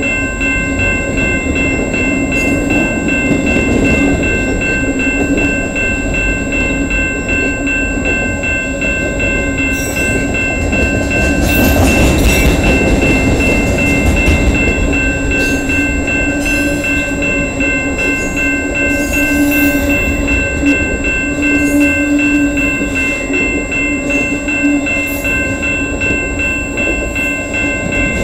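Freight train's cars rolling past, a steady, continuous run of steel wheels on rail.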